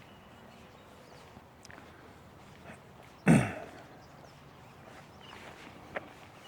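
Faint footsteps of a person walking on a park path, with one sudden loud thump about three seconds in that fades within half a second.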